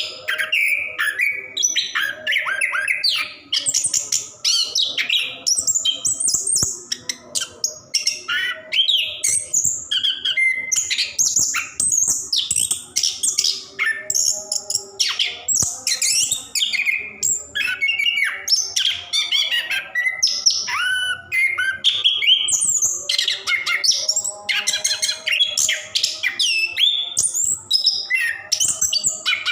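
Orange-headed thrush (anis kembang, plontang type) singing a long, unbroken rolling song. It runs through quick, varied high whistled phrases and chirps with almost no pauses.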